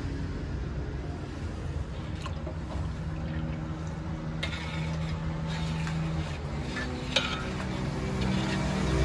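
Cooking at a street food stall: metal utensils clink against a pan a few times, over a steady low hum.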